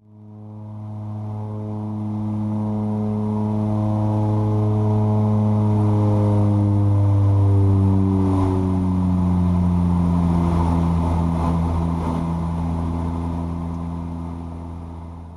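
Twin Otter's PT6A turboprop engines and propellers droning steadily in the climb, the pitch sliding slowly lower as the propellers are brought back to climb RPM. The drone fades in at the start and out at the end.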